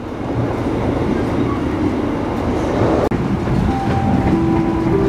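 Moving passenger train heard from inside the coach: a steady rumble of wheels on rail with some clickety-clack. The noise drops out for an instant about three seconds in, and a few faint steady tones then sound over the rumble.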